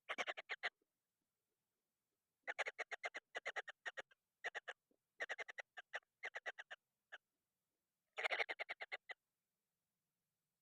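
Kingfisher nestlings giving harsh begging calls in quick runs of rapid notes, about seven a second, broken by short silences: the hungry chicks calling for food.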